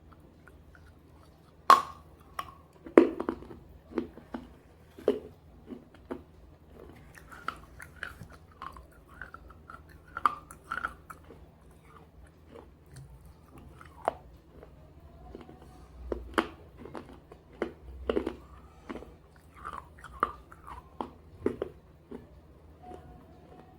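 Close-up chewing and biting of brittle slate pieces in red gravy: sharp crunches as pieces break, the loudest about two and three seconds in, then irregular crunching and chewing.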